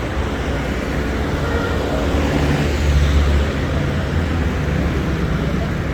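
Road traffic with a heavy vehicle's engine passing close, its low rumble and engine tone loudest about three seconds in.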